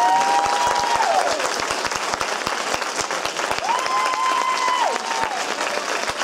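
Audience applauding steadily, many hands clapping at once, with a few long whoops rising and falling over the clapping.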